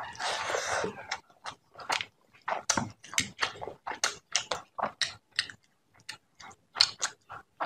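Close-up eating sounds of a person eating rice and fish head curry by hand: a wet rustle in the first second as a handful of rice goes into the mouth, then chewing with short wet smacks, about three a second.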